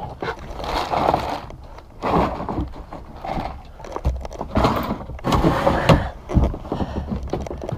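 Irregular knocks, thumps and rattles of a bass and fishing gear being handled in a kayak, with a couple of heavier thuds about four and six and a half seconds in, as the fish is measured.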